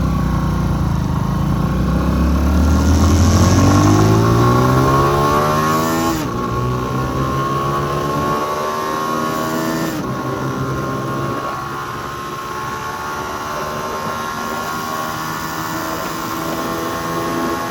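Mini motorcycle's single-cylinder engine under way, its pitch rising as it accelerates, dropping with a gear shift about six seconds in, then settling into a steady cruising note. The bike is running a newly changed front sprocket, geared for lower revs at cruising speed.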